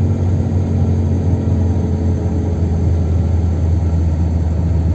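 Chevrolet Kadett 1.8 naturally aspirated four-cylinder at a steady highway cruise, heard from inside the cabin: an even low engine drone mixed with road noise.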